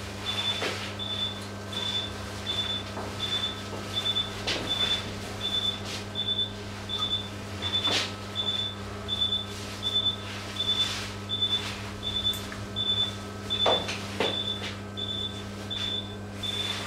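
Anaesthesia patient monitor beeping steadily with the pulse, a short high beep about every two-thirds of a second (roughly 90 a minute), over a constant low electrical hum. A few sharp clicks break in now and then.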